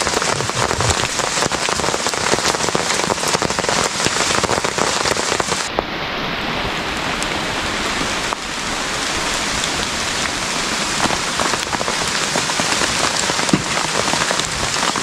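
Heavy tropical rain falling hard, a loud, dense, steady hiss of drops, with the top end briefly dulled for a couple of seconds around the middle.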